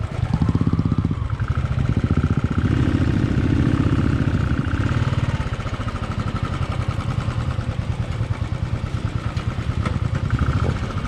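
Motorcycle engine running steadily with an even beat as the bike is ridden slowly over a loose stony riverbed, its note a little fuller between about two and five seconds in.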